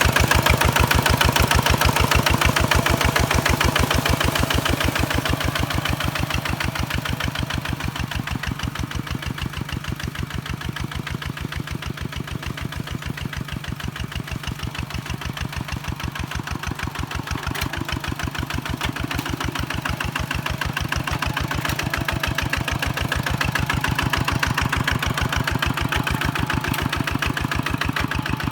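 Kubota walk-behind tractor's diesel engine running with a steady, rapid chugging beat, easing off somewhat in the middle and building up again near the end.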